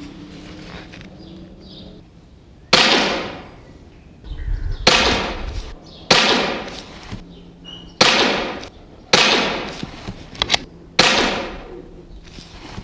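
Air rifle firing six shots about one to two seconds apart, each a sharp crack that trails off over about a second.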